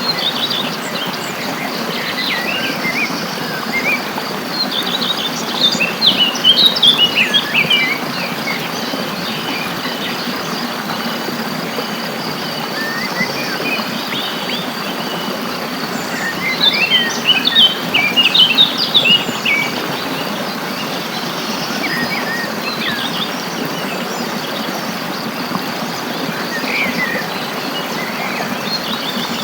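Wild songbirds chirping and twittering, in two busier flurries of quick chirps about a quarter and about three fifths of the way through, over a steady high insect drone and a constant background hiss.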